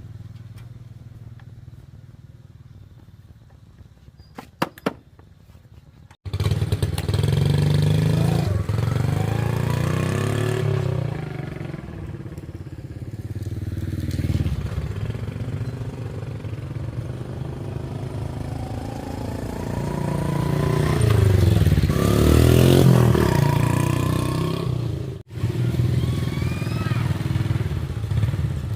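Old kick-start motorbike engine running and being revved, its pitch rising and falling, loud from about six seconds in after a few light clicks; it cuts out briefly near the end and comes back.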